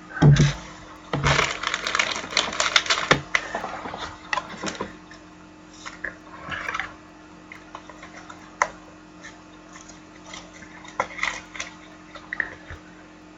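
Trading cards being handled: a couple of soft thumps, then a stretch of crinkling and crackling that fits a card-pack wrapper being torn open, followed by scattered clicks and rustles as the cards are flipped through.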